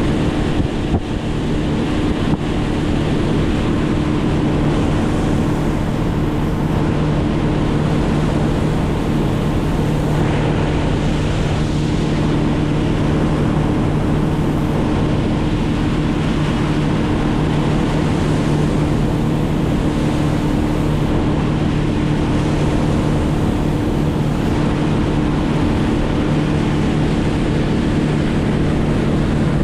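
A motor running at a steady speed, its hum unchanging, with wind rushing over the microphone.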